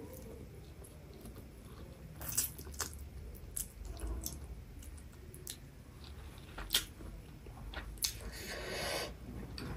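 Close-miked wet chewing and slurping of instant noodles, with frequent sharp mouth clicks and lip smacks and a longer breathy sound about eight seconds in.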